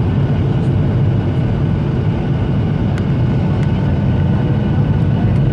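Airliner cabin noise during the approach to landing: a steady, loud low rumble of engines and airflow, with a few faint steady tones above it.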